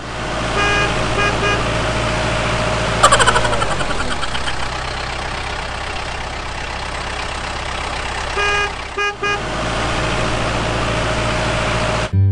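A motor vehicle engine runs under a dense noise, and its horn sounds in two sets of three short toots, one near the start and one about eight and a half seconds in. About three seconds in, a sudden sharp sound with a falling whistle-like tone is the loudest moment.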